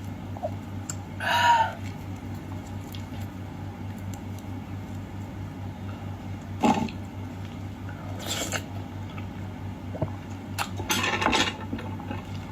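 Sounds of eating and handling food at a table: a few short, scattered clicks, scrapes and mouth noises over a steady low hum.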